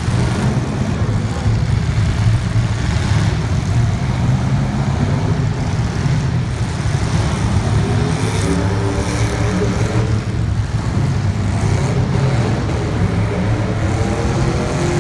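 Drag-race car engines running loudly and steadily, with a pitched engine note coming through from about halfway.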